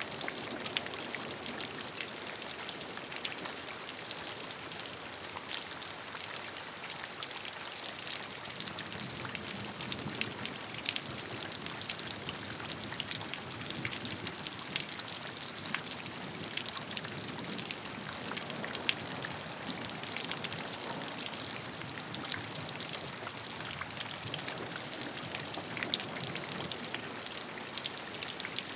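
Steady rain, with many separate drop hits sounding close over an even wash.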